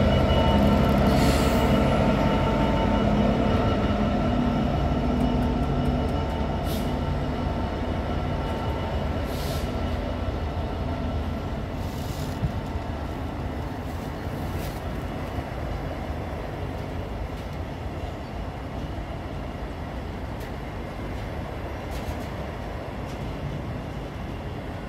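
Class 66 diesel locomotive, its two-stroke V12 engine running as it passes at crawling speed, the engine note fading over the first several seconds. Then a long train of loaded container wagons rolls slowly by, wheels rumbling on the rails, with a few brief high-pitched squeaks.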